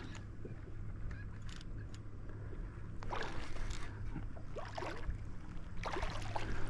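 Water splashing and sloshing around a kayak while a hooked smallmouth bass is fought on the line. Two louder rushes come about three seconds apart.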